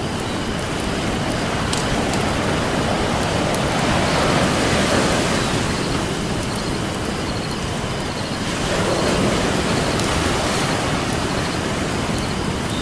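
Ocean surf washing steadily, swelling with a wave about four seconds in and again about nine seconds in, with a few sharp pops from a crackling wood campfire.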